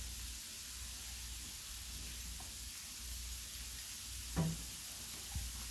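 Shrimp, scallops and onion frying on the hot steel top of a 22-inch Blackstone griddle, a steady soft sizzle, with the burner on high to cook the water out. A brief knock about four seconds in.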